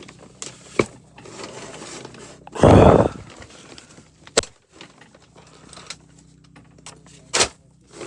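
Clicks and knocks of PEX crimp rings, fittings and a crimping tool being handled, with one louder, half-second clatter about three seconds in.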